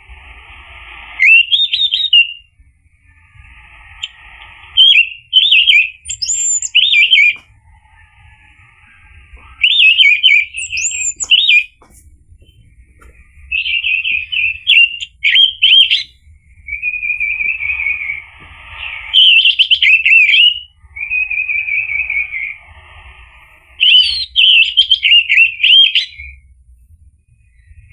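Orange-headed thrush singing: loud, varied whistled phrases of quick rising and falling notes, each a second or two long and repeated every few seconds, with a faint hiss between phrases.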